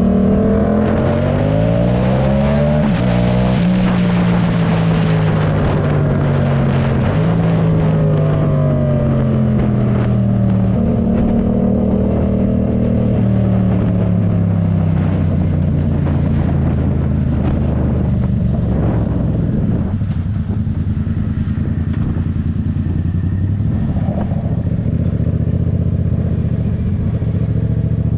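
Yamaha MT-07 parallel-twin engine under way on the road. The engine pitch climbs and drops several times through the first half as the revs change, then settles into a lower, steadier note.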